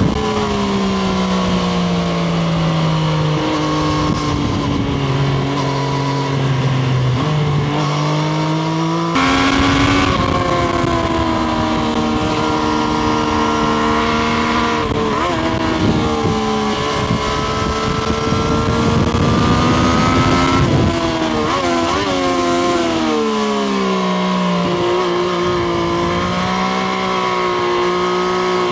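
Triumph Street Triple RS inline-three engine running under way, its pitch falling and rising as the throttle and speed change. About nine seconds in it gets suddenly louder with a jump in pitch, and near the end it settles to a steadier, lower note.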